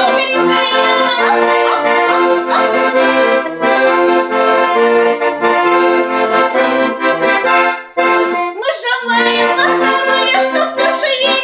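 Accordion playing a lively folk tune in sustained chords, with a brief drop in the music about eight seconds in.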